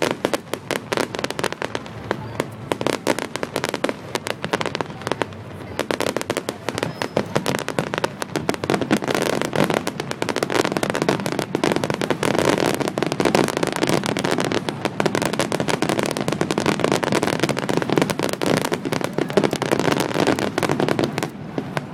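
Aerial fireworks going off in a rapid, dense barrage of bangs and crackles, thickening about eight seconds in into a near-continuous rattle.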